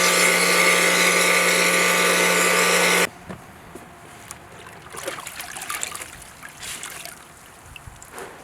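An electric-motor-driven machine running steadily with a low hum and a hiss, cutting off suddenly about three seconds in; after that, faint handling and rustling noises.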